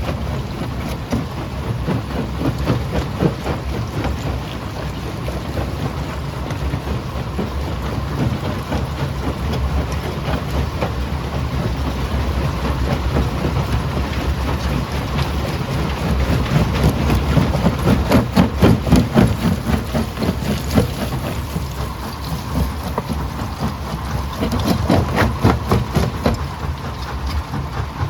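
Primary jaw crusher running: a steady low machine drone under dense rattling knocks and cracks of rock being crushed, swelling louder and pulsing for a few seconds past the middle and again near the end.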